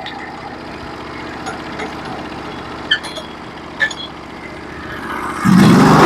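Norwood HD36v2 portable band sawmill's engine running steadily, with two sharp clicks in the middle, then getting much louder near the end.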